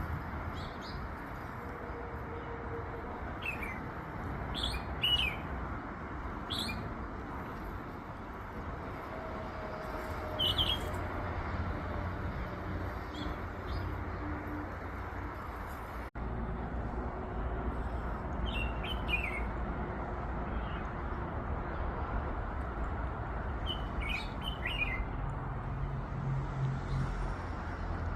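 Small birds chirping in short, high, falling calls every few seconds over a steady low background rumble. The sound cuts out for an instant about halfway through.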